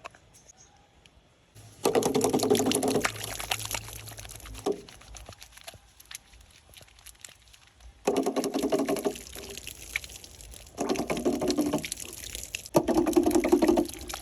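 Liquid being poured into a container in four separate pours, each lasting one to two seconds.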